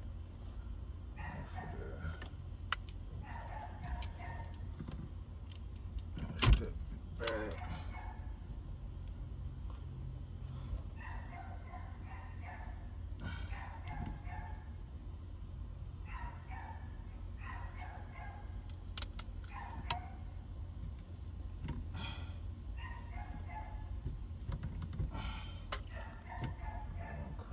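Faint bird calls in short repeated phrases every second or two, over a steady high whine and a low hum. One sharp click about six and a half seconds in is the loudest sound.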